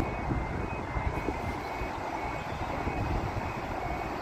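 Level crossing warning alarm sounding faintly as a steady run of short repeated high tones, over a continuous low rumble, while the crossing is closed for an oncoming train.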